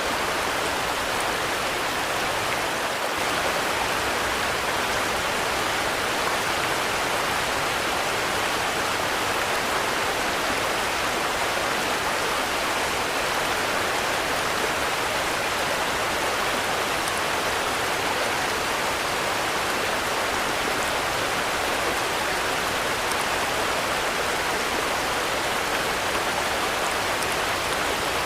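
Steady rain falling, an even hiss of drops that does not change.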